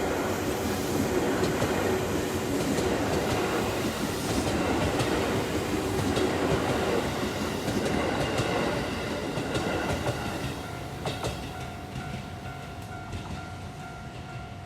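A JR Yamatoji Line electric train passes over a level crossing, its wheels clattering over the rail joints. The train noise fades after about ten seconds, while the crossing's warning bell keeps ringing with a steady tone.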